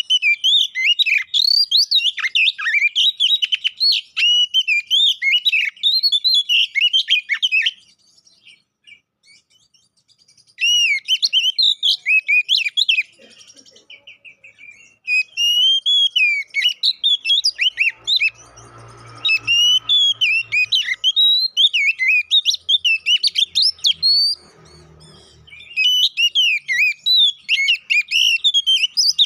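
Male Oriental magpie-robin (kacer, poci type) singing in combative, nonstop song: rapid runs of loud, varied whistled notes and sliding chirps, broken by a few short pauses.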